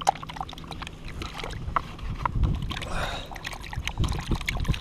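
Perch being handled for frying: scattered light clicks and knocks, with a short rush of noise about three seconds in, over a low rumble.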